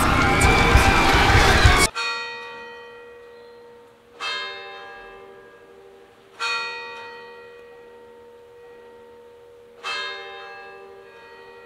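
A loud, dense wash of sound cuts off abruptly about two seconds in, and a bell is then struck four times at uneven intervals, each stroke ringing out and slowly fading.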